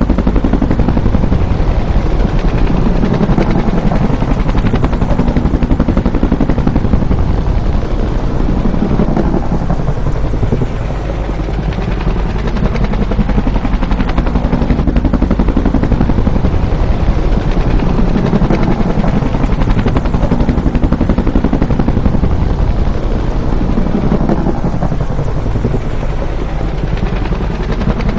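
Bell UH-1 Huey helicopter, its two-blade main rotor beating rapidly as it flies by. The sound eases briefly twice, then builds again.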